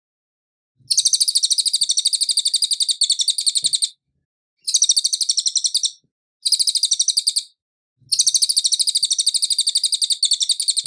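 Cililin songbird singing: four rapid, high trills of quickly repeated notes, the first and last about three seconds long and the middle two shorter, with brief pauses between them.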